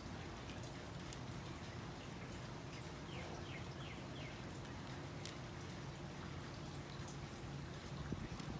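Faint clicking and crackling of basket-weaving material being worked by hand, over a steady low hum. A quick run of four short squeaks about three seconds in, with a few sharper clicks near the end.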